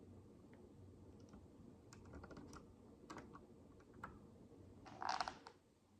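Micro building bricks handled and pressed together: a few faint, light plastic clicks spread out, then a short louder rustle about five seconds in.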